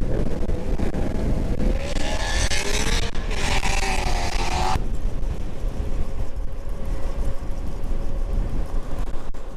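Strong wind buffeting the microphone while riding. A rising whine comes in about a second and a half in and cuts off suddenly a few seconds later.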